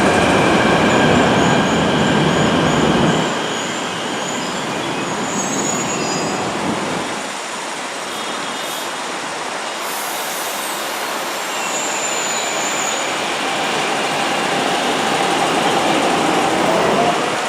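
China-built MTR Kwun Tong line metro train running through a station. Wheels rumble on the track with a steady whine, loud for the first three seconds and then quieter, and a whine rises again near the end.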